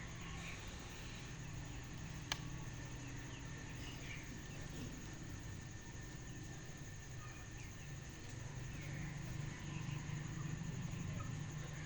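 Faint outdoor ambience: scattered soft bird chirps over a low steady hum, with one sharp click about two seconds in.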